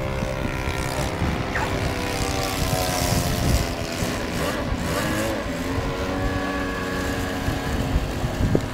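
Radio-controlled model airplane engines running in flight, among them a quarter-scale Clipped Wing Cub's ASP FS120AR four-stroke glow engine. Several engine tones overlap, their pitches sliding slowly up and down as the planes turn and pass.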